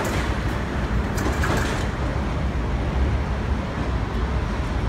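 Passenger train rolling away along the track: a steady rumble, with the clicking of wheels over the rails that dies away about two seconds in.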